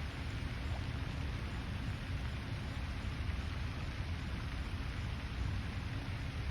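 Steady outdoor lakeside ambience: an even hiss with a low rumble beneath it and no distinct calls or events.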